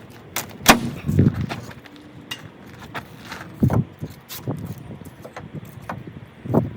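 Handling noise: a dozen or so irregular knocks, clicks and dull thuds, as of wooden pieces being picked up and set down. The loudest thud comes a little past halfway.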